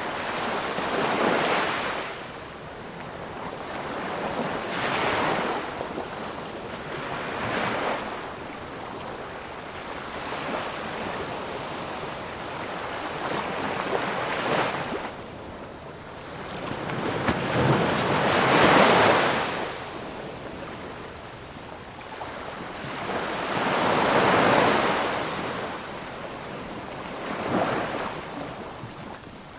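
Ocean waves breaking on a shore, a rushing hiss that swells and falls away with each wave every few seconds, the biggest surge about two-thirds of the way through.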